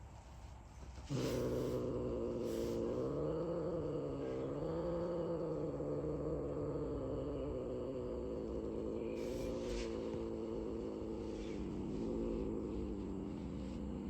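Domestic cat growling: one long, low, unbroken growl that starts about a second in and wavers in pitch, the warning sound of an annoyed cat being touched.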